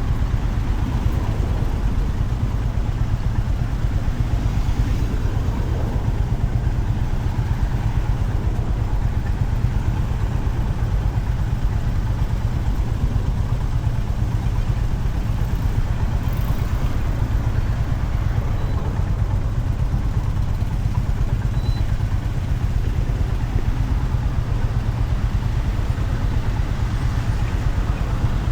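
Honda CB350RS's air-cooled single-cylinder engine running steadily, a deep even pulsing drone over a constant rush of noise.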